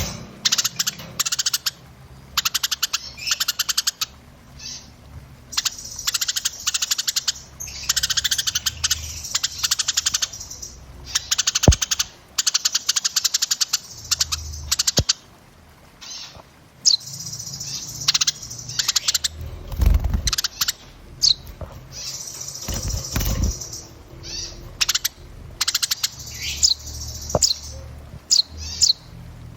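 Small songbirds chirping and trilling in dense, very rapid runs, with sharp short whistled notes later on: a 'masteran' tutor recording of small-bird song. Two low bumps come past the middle.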